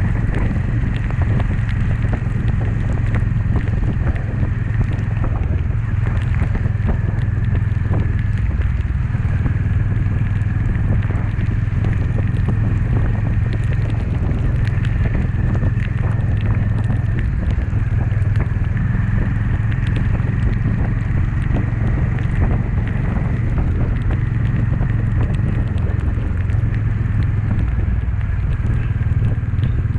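Honda CB350's single-cylinder engine running steadily, a low rumble with a steady high-pitched tone above it and scattered clicks.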